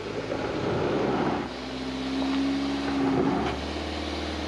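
Suzuki Jimny engine pulling under load on soft, slippery ground. The revs build, hold a steady higher note in the middle, then drop to a lower, even note about three and a half seconds in.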